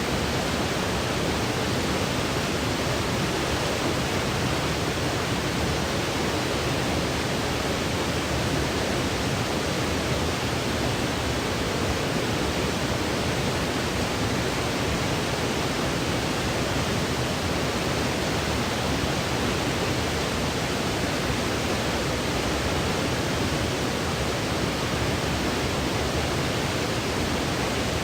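Continuous synthetic white noise played as a sleep aid: an even, unchanging hiss with no breaks or variation.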